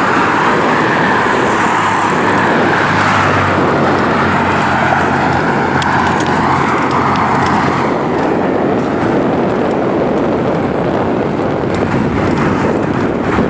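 Steady road traffic noise: cars going by, with an engine hum rising out of the rush for a few seconds in the middle.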